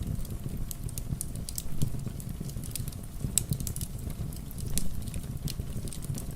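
A wood fire crackling, with irregular sharp pops, over a steady low rush of rain.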